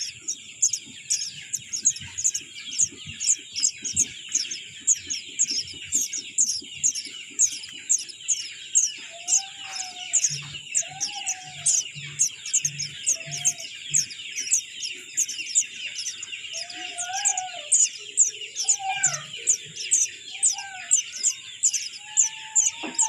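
Bird chirping on and on, a run of short high chirps about two to three a second, over a steady high hiss; a few lower, rising-and-falling calls come in around the middle.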